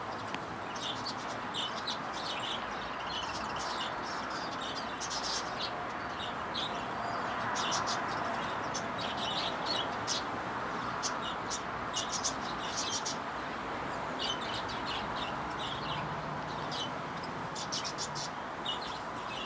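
Steady hum of many honeybees flying around a busy hive, with small birds chirping again and again over it.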